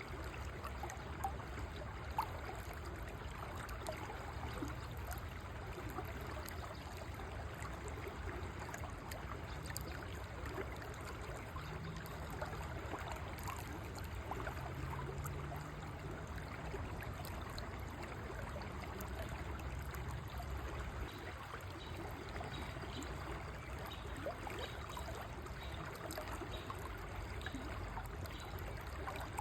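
A river flowing steadily, a continuous rush and trickle of water.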